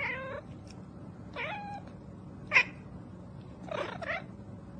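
A cat meowing four times in a row, the third call short, sharp and loudest, over a steady low hum.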